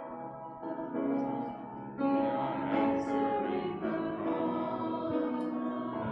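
Music from a group of voices singing held chords with instruments, getting louder about two seconds in.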